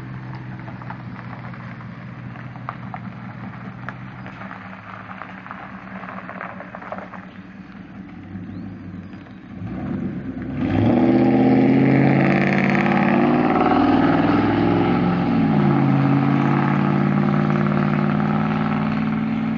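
1998 Ford F-150 engine running steadily with faint clicks for about ten seconds. About ten seconds in it suddenly gets much louder, its pitch rising and then falling before it settles into a steady loud run.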